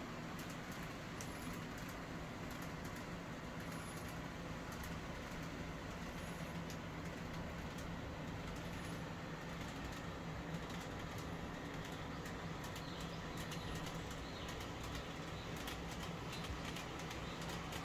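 Model train of the Shinano Railway SR1 running along its track: a steady motor whir with a constant low hum and light, irregular clicking.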